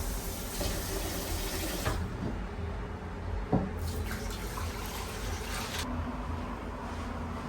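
Water from a tap running into a sink, cut off about two seconds in and running again for a couple of seconds in the middle, with a single knock between the two runs.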